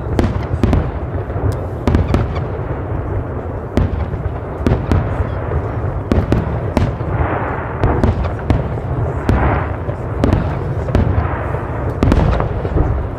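Fireworks going off in a rapid, irregular series of sharp bangs and booms, with a denser crackling hiss through the middle.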